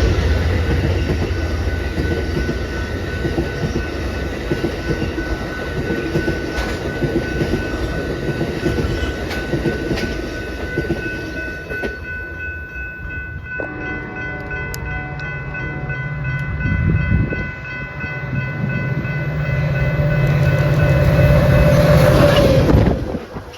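A train running on the tracks through a station, with wheels clattering over the rails and steady high tones over the noise. The sound drops off sharply near the end.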